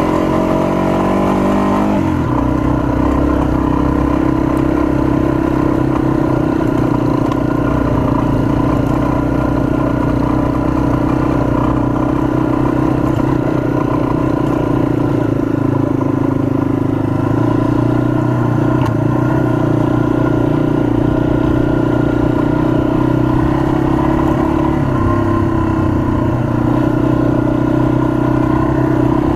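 Yamaha dual-sport motorcycle's single-cylinder four-stroke engine running under way, heard from the bike itself. Its pitch rises, then drops about two seconds in as it shifts up, and then runs fairly steady.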